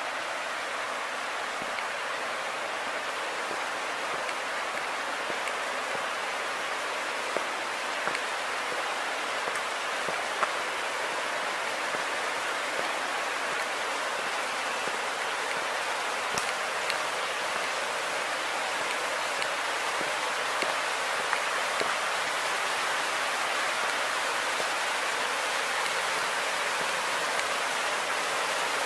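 Steady rush of falling or flowing water from the waterfall's stream, growing slowly louder, with a few faint clicks.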